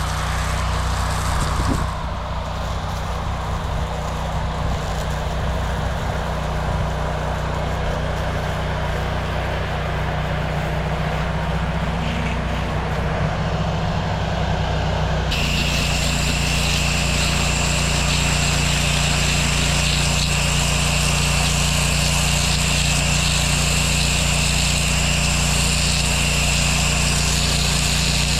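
Gas pressure washer engine running steadily. About halfway through, a louder steady high hiss with a whine sets in abruptly, the sound of water spraying.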